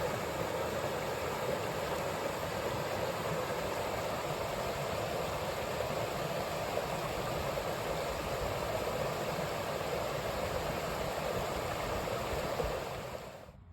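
Rushing water of a rain-swollen creek running high after heavy rain, a steady full rush with a churning low rumble, fading out near the end.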